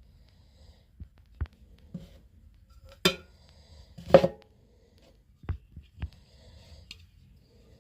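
A string of separate knocks and clicks from objects being handled, the loudest about four seconds in, just after a sharp click.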